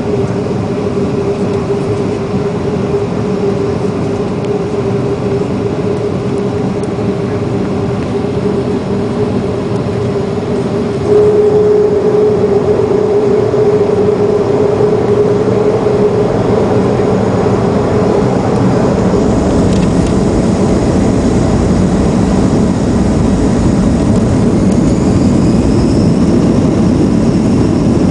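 Boeing 737-400's CFM56 jet engines running with a steady hum and a clear steady tone. About eleven seconds in they jump louder and a deep rumble builds: thrust coming up for the takeoff run.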